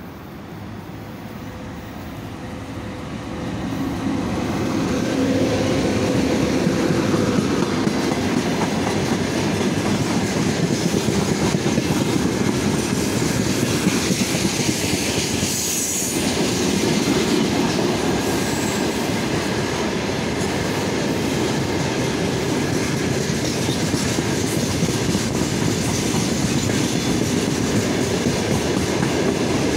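VL80K two-section electric locomotive hauling a freight train of hopper wagons, approaching and passing close by, the noise growing loud about four seconds in. It is followed by the steady rolling clatter of the wagons' wheels on the rails.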